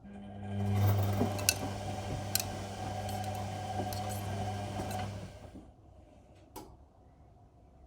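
Whirlpool Indiana 1400 washing machine's drum motor running with a steady hum for about five seconds as the laundry tumbles, with a few clicks along the way, then stopping; a single click follows a second later.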